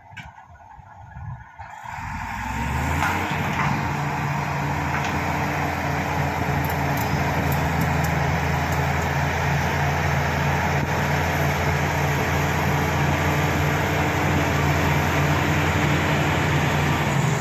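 Shantui SD16 bulldozer's diesel engine revving up about two seconds in, then running steadily at high revs.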